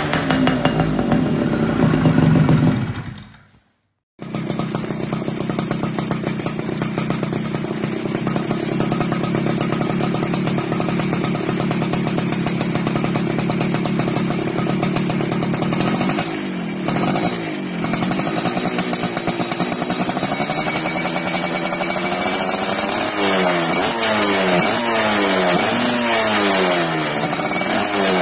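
Yamaha F1ZR two-stroke single-cylinder engine through a racing exhaust, running loud. After a short break about four seconds in, it idles steadily, gets a couple of throttle blips after about sixteen seconds, and is revved up and down several times near the end.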